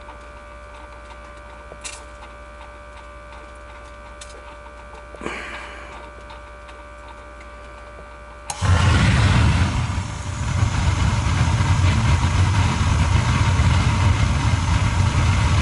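Gas water heater's main burner lighting with a sudden whoosh about two-thirds of the way in, then firing with a steady low rumble and hiss. Before it there is only a faint steady hum with a few light clicks.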